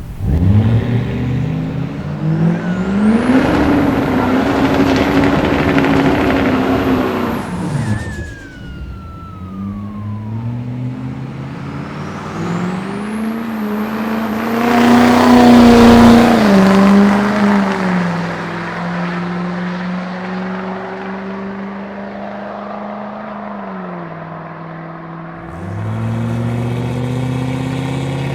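Turbocharged 6.6-litre Duramax V8 diesel pulling hard, its note rising with a high whistle climbing alongside. About eight seconds in it lets off and a whine falls away. A second hard pull peaks around sixteen seconds, then it settles to a steady lower drone, dipping briefly near the end.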